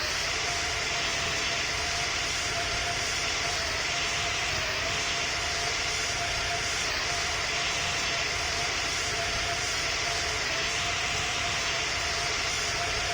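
Airbus A220 in flight: a steady drone of jet engine and airflow noise with a thin, even whine running through it.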